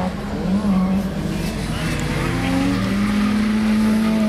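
Drift car's engine revving hard, its pitch blipping up and down in the first second or so, then held steady at high revs for the last couple of seconds, with tires squealing as the car slides.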